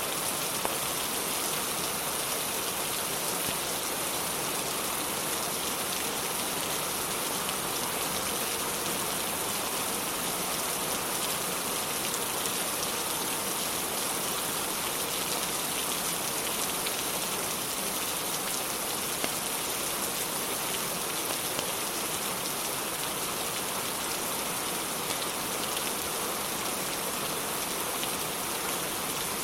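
Steady rain, an even unbroken hiss, with a few faint ticks.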